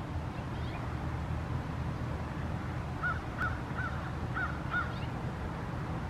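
A low, steady rumble. About three seconds in, a bird gives five short calls in quick succession, each rising and falling in pitch.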